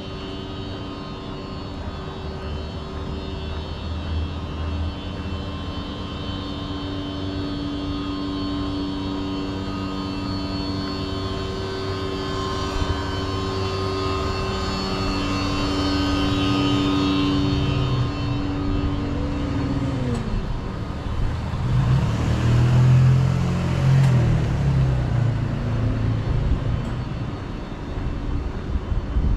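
Street traffic: a vehicle engine's steady hum builds through the first half and fades, then a heavier motor vehicle passes close with a louder low rumble about two-thirds of the way through.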